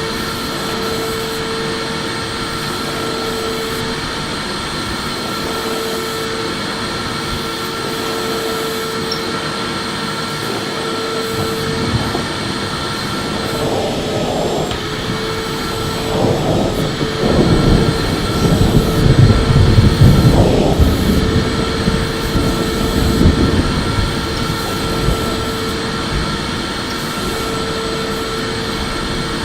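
Electric vacuum cleaner running steadily: a motor whine over rushing airflow. For several seconds in the middle it grows louder and rougher, with a low rumble.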